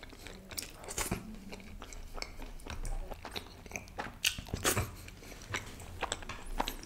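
Close-miked chewing of a mouthful of butter chicken: wet, smacking mouth sounds with sharp clicks at irregular intervals.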